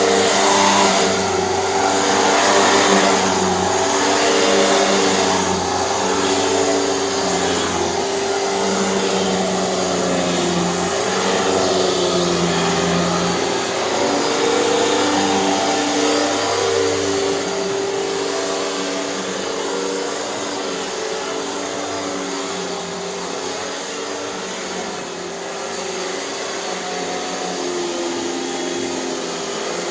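Hoover canister vacuum cleaner running with its power nozzle: a steady motor whir and airflow hiss, the motor's note stepping up and down every second or two.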